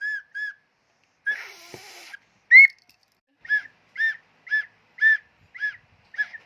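A child blowing a toy whistle in a series of short, shrill toots, each bending up and back down in pitch. There is one breathy, airy blast just after a second in. Then the toots come steadily about twice a second through the second half.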